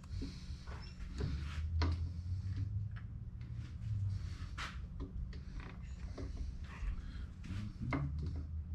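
Scattered light metallic clicks and knocks of tooling and machine parts being handled during a milling machine setup, over a steady low hum.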